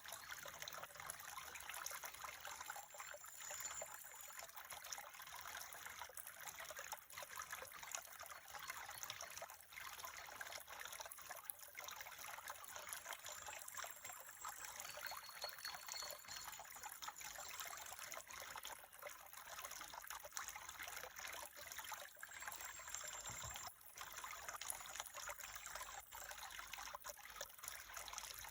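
Water of a small stream trickling and flowing steadily, with faint, thin, high whistles now and then.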